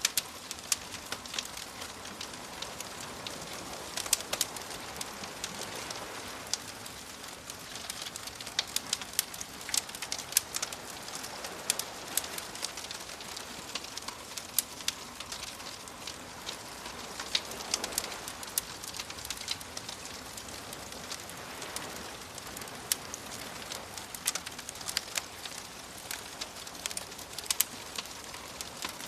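Campfire crackling with frequent sharp pops and snaps over a steady wash of gentle waves.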